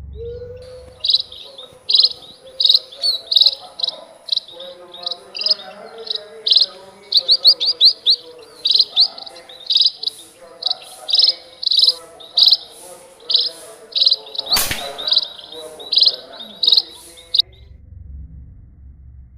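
Small birds chirping: many short, repeated high chirps in quick runs, which stop abruptly near the end. A single sharp crack about three-quarters of the way through.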